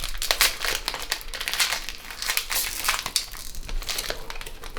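Plastic wrapper of a packet of Pink Panther wafers crinkling and crackling as it is handled and torn open.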